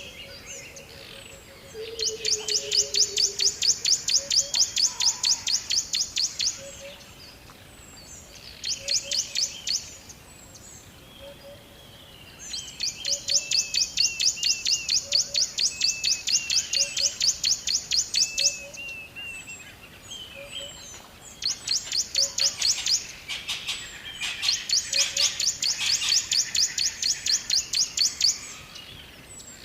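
Birdsong: a bird repeats a rapid, high trill in bouts of a few seconds, with short chirps in the pauses between bouts. A faint low note repeats about once a second underneath.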